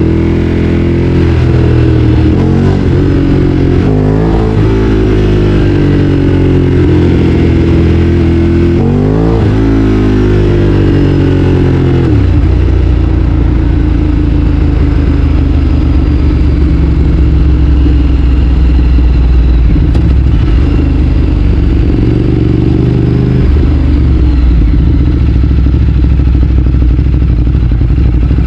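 Ducati Streetfighter 848's twin-cylinder engine under way, revs rising and falling through gear changes, with a quick rev rise and drop about nine seconds in. It then settles to a lower, steady run, rising briefly again about two-thirds of the way through.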